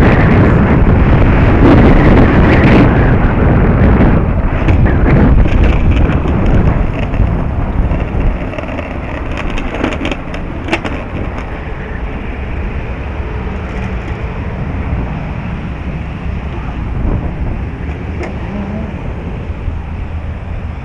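Strong wind buffeting the microphone, a loud rumbling rush that is heaviest for the first eight seconds or so and then eases somewhat.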